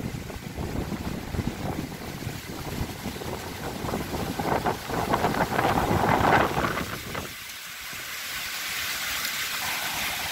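A strong windstorm gusting hard against the microphone: a low buffeting rumble that swells to its loudest about six seconds in. About seven seconds in the rumble cuts off suddenly, leaving a steady rushing hiss of wind.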